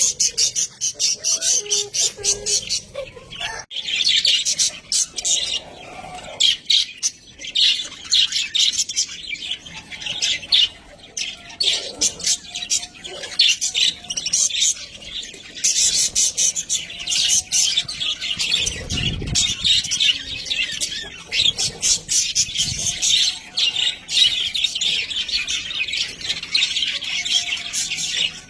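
Budgerigars chattering in a steady stream of rapid, high chirps and warbles, with a single low thump about two-thirds of the way through.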